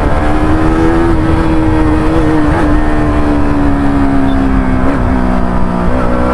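KTM RC single-cylinder motorcycle engine running under steady throttle while riding, its pitch sagging slowly, then dipping briefly and settling at a lower pitch about five seconds in.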